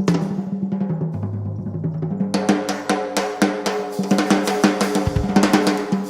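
A live band plays an instrumental passage over low held notes, with a drum kit playing snare rolls and hits. About two seconds in, the drums turn much busier, with dense strikes.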